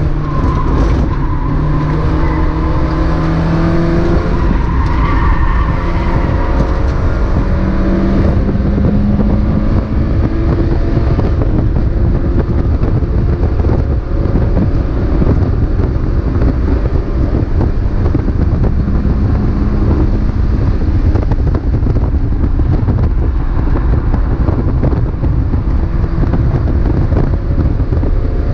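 Mazda MX-5 race car heard from on board at racing speed: the engine runs hard under a heavy low rumble, its pitch rising and falling with the gears in the first dozen seconds, then settles into a steady roar of engine, road and wind noise.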